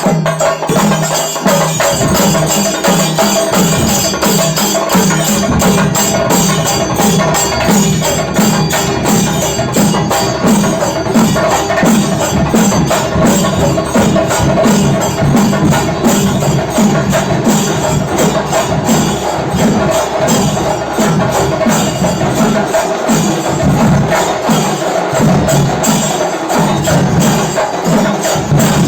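Dollu and nagari drums of a temple ensemble playing a fast, steady, driving rhythm, deep drum strokes repeating evenly with a bright clatter on top.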